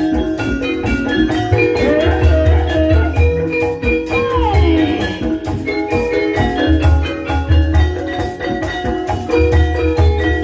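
Gamelan music accompanying an ebeg hobby-horse dance: metallophones play a fast, repeating interlocking melody over deep low notes that come back every two to three seconds. A single pitched line glides up and back down about four seconds in.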